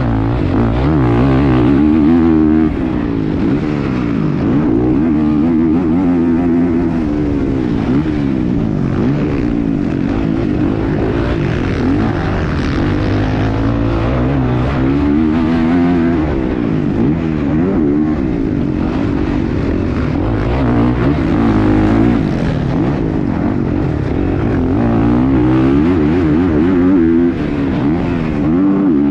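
Several motocross dirt bike engines running hard on a track, their pitch rising and falling over and over as riders twist the throttle and shift through the gears.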